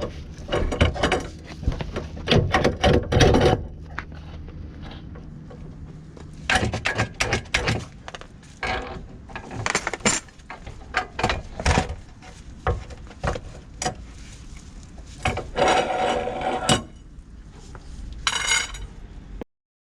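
Metal hand tools and parts being handled during car repair: a string of irregular knocks and clatters, with a denser rattling stretch late on and a short sharp rattle near the end.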